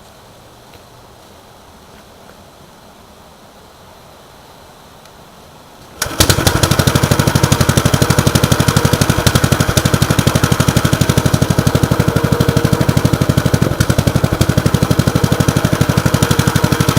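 1948 Gravely Model L walk-behind tractor's engine on a cold start after a month unused: it catches suddenly about six seconds in and then runs with a rapid, even beat.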